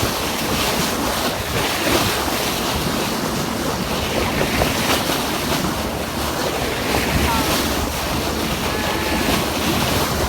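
Steady wind buffeting the microphone over the wash of ocean waves.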